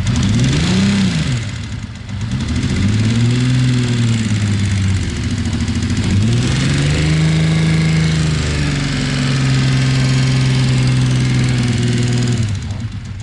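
Kawasaki Z1300 inline-six motorcycle engine being revved with the throttle: two short blips, then a longer rev held for several seconds, settling back down near the end. The engine is being run to track down a ticking noise.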